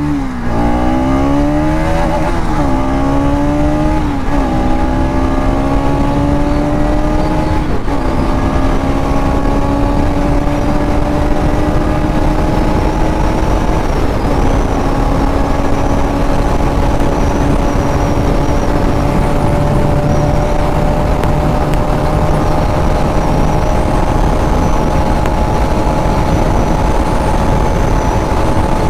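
Bajaj Pulsar NS200's single-cylinder engine at full throttle, accelerating up through the gears: its pitch climbs and drops at four upshifts in the first fourteen seconds or so, then holds a steady high note at top speed.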